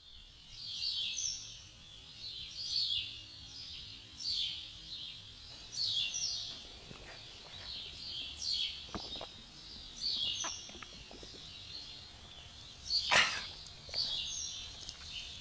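A bird repeating a short, high chirping call about every one and a half seconds. A single sharp click comes about thirteen seconds in.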